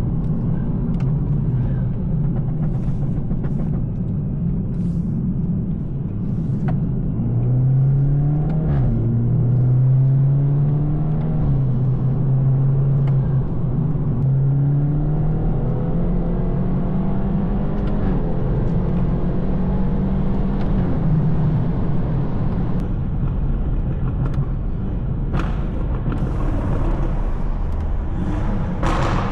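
BMW 220i's turbocharged B48 2.0-litre four-cylinder, on an aftermarket downpipe and M240i exhaust, pulling through the gears. The engine note climbs and drops back several times at the shifts, then settles into a steady cruise, with a few sharp clicks near the end.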